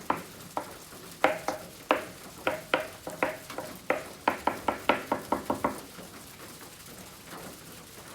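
A quick, irregular series of light taps or clicks, each with a brief ring, about two or three a second, stopping a little before six seconds in.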